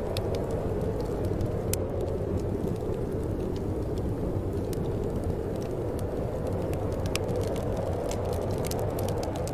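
Wood fire burning in a fireplace: a steady low rumble of flame under irregular sharp crackles and pops, which come more thickly near the end.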